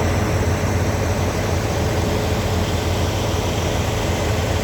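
Heavy diesel truck engine idling: a steady low hum with a faint constant whine above it.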